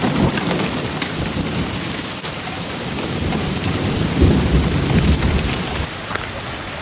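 Heavy rain pouring down during a severe thunderstorm, with a low rumble of thunder swelling about four seconds in. The sound changes abruptly near the end.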